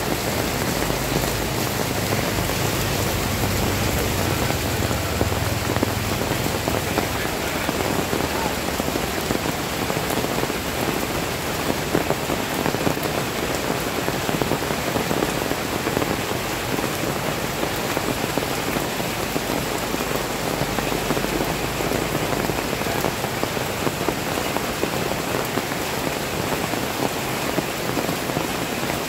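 Heavy rain pouring onto a flooded paved street, a steady dense hiss of drops splashing into standing water. A faint low hum sits under it for the first several seconds.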